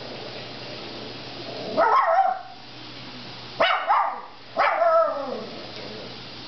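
Schnauzer barking in three bouts, starting about two seconds in, each bout a short run of barks that falls in pitch.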